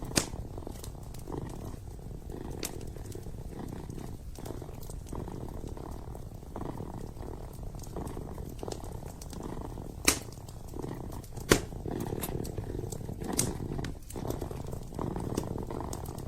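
A kitten purring steadily, the low rumble swelling and easing with each breath, with a few sharp pops from a wood fire, the loudest two about ten and eleven and a half seconds in.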